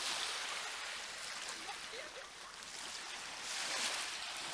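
Sea water washing, a hissing rush that swells near the start and again about three and a half seconds in, with faint voices in the background.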